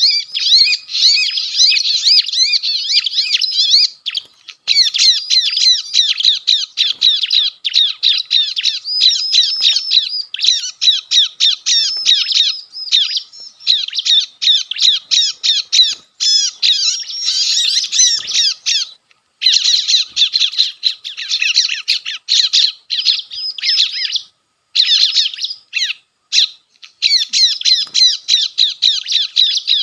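Bar-winged prinia (ciblek) distress chatter, the 'kejepit' lure call, played from a recording: a dense run of rapid, high, scolding notes broken by a few short pauses.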